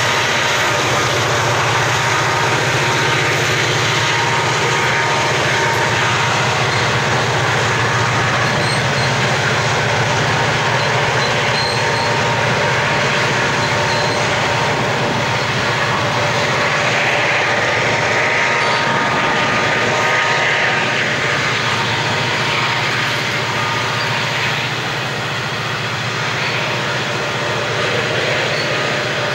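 Loaded grain hopper wagons rolling steadily past on the grade: a continuous rumble and clatter of wheels on rail under a low hum, with thin steady squealing tones over it. It eases slightly in the last few seconds.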